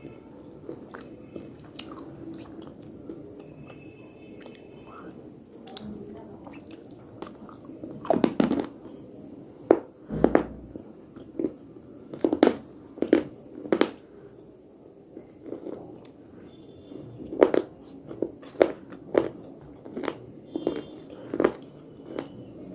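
A person biting and crunching hard, brittle earthy pieces close to the microphone. Soft chewing for the first several seconds, then about a dozen sharp, loud crunchy bites at irregular intervals.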